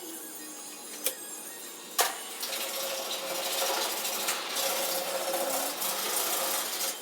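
Two sharp clicks, then a small motor-driven shop tool starts up and runs steadily from about two and a half seconds in.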